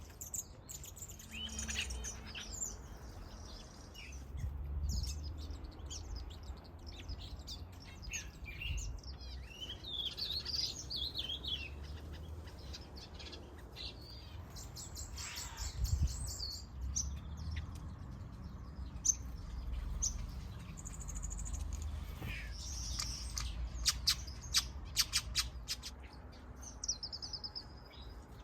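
A mixed flock of small aviary birds, finches among them, chirping and calling over one another in short twitters and trills. A run of sharp clicks comes near the end, and a low rumble sits underneath.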